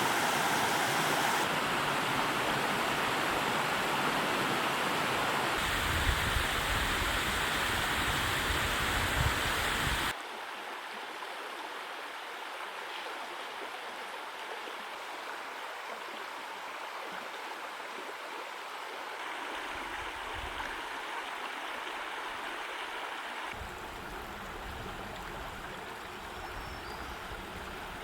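Rushing water of a mountain creek: a steady rush that drops abruptly to a quieter, gentler flow about ten seconds in, as if from separate clips.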